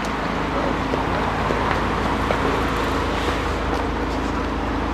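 A vehicle engine running steadily, with a continuous low rumble and no sudden changes.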